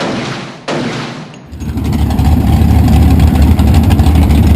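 Two short hissing bursts, each fading within about half a second. About a second and a half in, a 383 cubic-inch small-block Chevy V8 starts running loud and steady, with a deep, fast pulsing exhaust.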